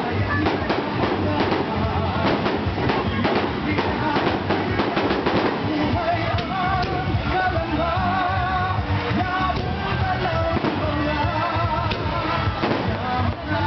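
Fireworks bursting and crackling over loud music, with a singing voice coming in about six seconds in.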